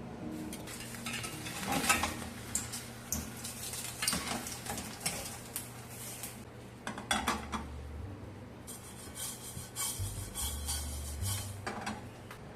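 Metal kitchen utensils clinking, knocking and scraping against pots, pans and dishes, with irregular sharp knocks. A steady high hiss like food sizzling joins about nine seconds in.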